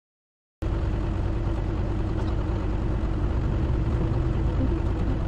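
Engine running steadily with a low rumble and a steady hum, starting abruptly about half a second in as the sound cuts in from silence.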